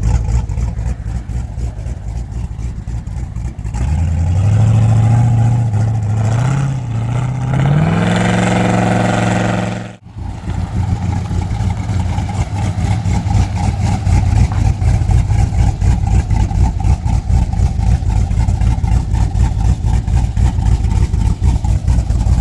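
Cammed LS2 V8 running through Carven Type R mufflers with a choppy, pulsing idle. About four seconds in it revs up, climbing in steps for several seconds. It cuts off abruptly about ten seconds in, then settles back into the choppy pulsing note.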